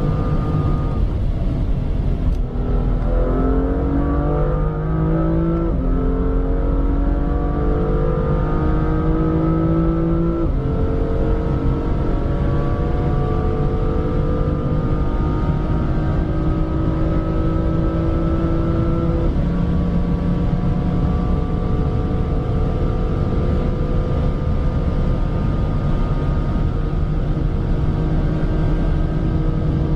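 BMW M2's turbocharged straight-six pulling hard under full-throttle acceleration. Its pitch climbs through each gear and drops sharply at four upshifts, and each gear lasts longer than the one before as speed builds. A steady low road and wind rumble runs underneath.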